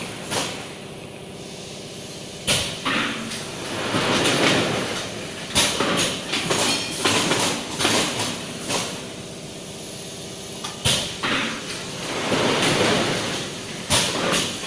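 Screen-printing machine at work: a sharp clunk every few seconds, with swelling sliding, rumbling machine noise between the clunks.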